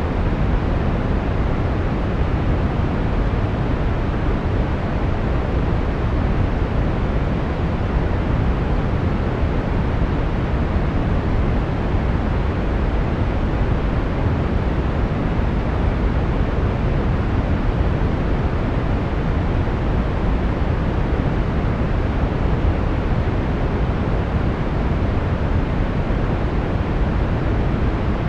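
Brown noise: a steady, even rushing hiss weighted to the low end, with no changes.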